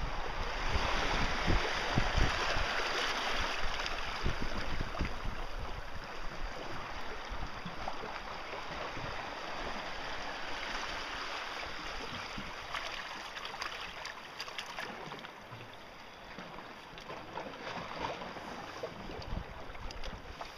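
Steady rush of wind and water, with wind buffeting the microphone in the first few seconds, slowly growing quieter.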